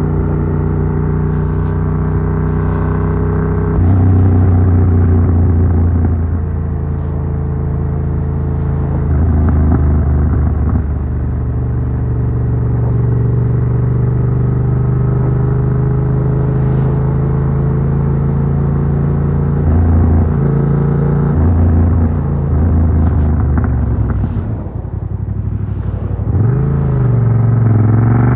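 Yamaha MT-07's 689 cc parallel-twin engine through an Arrow Works exhaust with dB killer, riding under way: it runs at a steady pitch for stretches, with a jump in revs about four seconds in and further pitch changes through gear shifts. Near the end the revs fall away and waver, then climb again.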